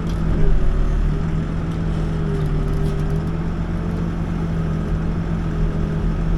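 Backhoe's diesel engine running steadily, with a higher tone above it that wavers slightly in pitch.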